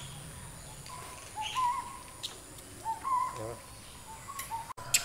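Faint bird calls: a series of short, spaced hooting notes repeating every second or so.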